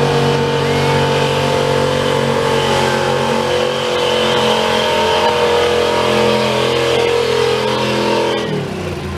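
Pickup truck engine running at high, steady revs under load while pulling a weighted sled down the track. About eight and a half seconds in, the revs drop sharply as the driver lets off.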